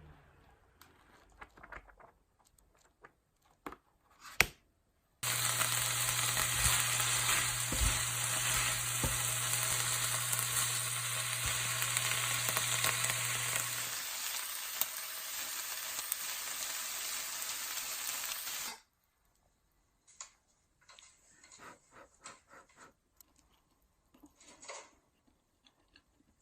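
Food sizzling in a hot frying pan. It starts suddenly about five seconds in, after a sharp click, and cuts off abruptly some fourteen seconds later. Faint small clicks and rustles come before and after it.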